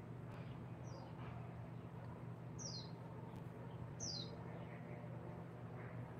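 A bird giving three short, high chirps that sweep downward in pitch, about a second and a half apart, over a steady low hum.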